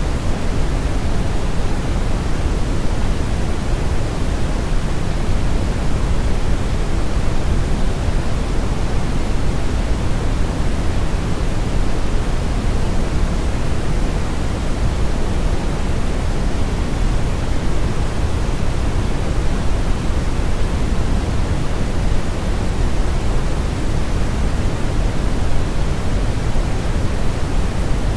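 Steady brown noise: a constant, even rumbling hiss weighted heavily toward the low end, like a strong river current or wind.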